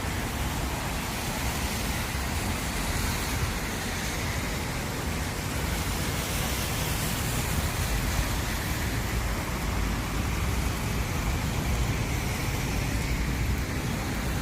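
Steady road noise of a car moving through rain on a wet road: an even hiss with a low rumble underneath.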